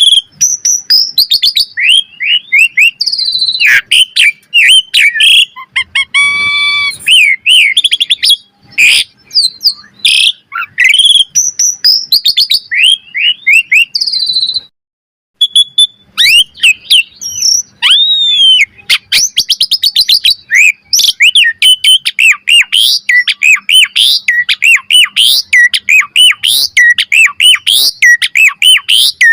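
Asian pied starling (jalak suren) singing a long, varied song of chirps, whistled glides and a harsh buzzy note, broken by a brief silence about halfway, then quickening into a fast run of repeated chirps.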